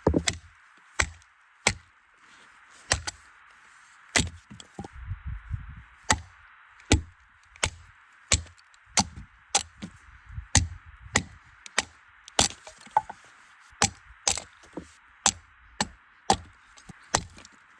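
Firewood being chopped with a blade: about two dozen sharp wooden strikes, irregular at first, then settling into a steady pace of roughly one every half-second to second.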